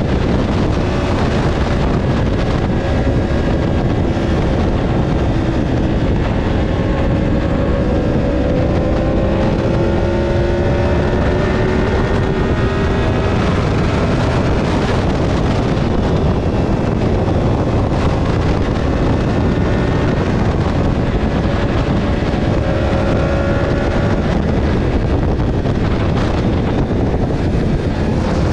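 Motorcycle engine running at road speed under heavy wind noise on the microphone. The engine note drifts slowly up and down as the speed changes.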